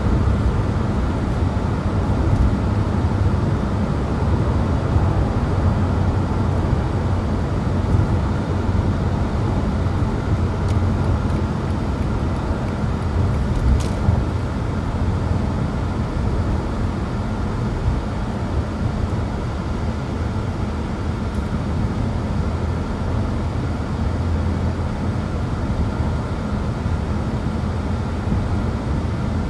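A road vehicle driving along, with a steady low engine and road rumble.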